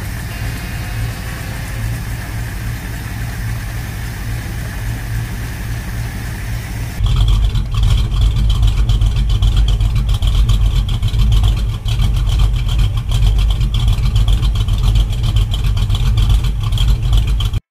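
1967 Ford Mustang engine running steadily, heard first from the engine bay around its Edelbrock four-barrel carburettor. About seven seconds in it switches to the tailpipe, where the exhaust note is louder and deeper.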